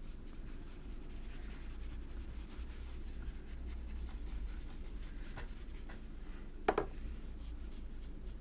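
Faint rubbing strokes of a paintbrush on paper as watercolor is brushed onto the page, over a steady low hum, with a short tap about two-thirds of the way through.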